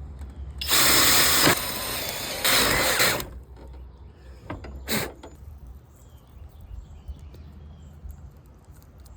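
Power tool cutting into a wooden board for about two and a half seconds, louder at the start and the end of the cut, then a single sharp knock a couple of seconds later.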